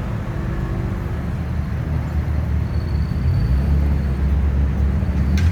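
A car engine running, a low rumble that grows louder a little past halfway, with a short click near the end.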